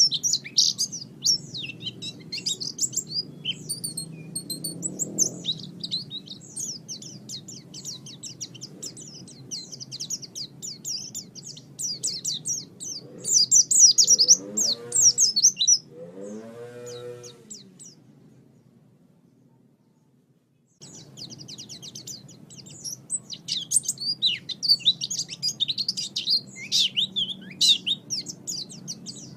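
Small songbird twittering in fast, dense high chirps, a bird-song recording of the kind played to lure and train cage birds. About halfway there are a few lower rising-and-falling calls; the sound then fades away to near silence, and the chirping starts again about two-thirds of the way in.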